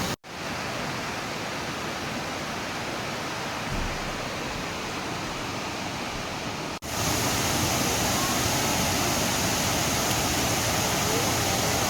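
Waterfall rushing: a steady, even roar of falling water, cut off for an instant twice and louder after about seven seconds.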